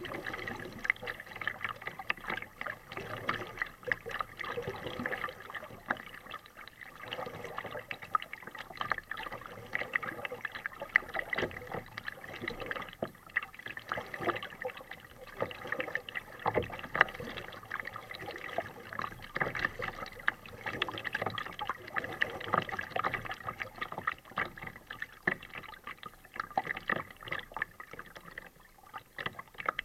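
Kayak paddling: paddle blades dipping and water splashing and lapping against the kayak in a dense run of small irregular splashes.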